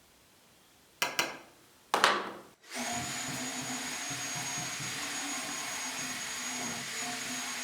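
Two sharp knocks about a second apart, then a motor-driven electric machine starts up and runs steadily with a high, constant whine for about five seconds before cutting off suddenly.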